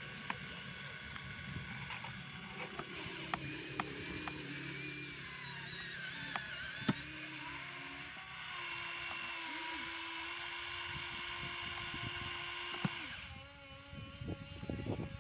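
Small electric motors and gearboxes of a radio-controlled toy truck whining, the pitch gliding up and down as the speed changes, with scattered sharp clicks.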